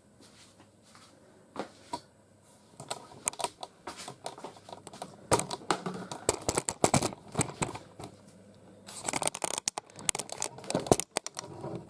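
Plastic toys being handled and set in place: a quick, uneven run of clicks, taps and rustling that grows busier from about three seconds in, densest near the end.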